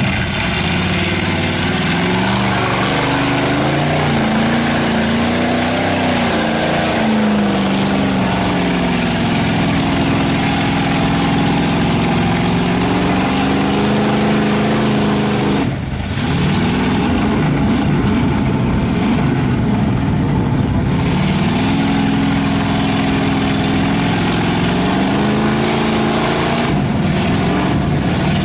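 Big mud truck engine running hard, revving up and down, its pitch rising and falling in long sweeps, with a brief break about sixteen seconds in.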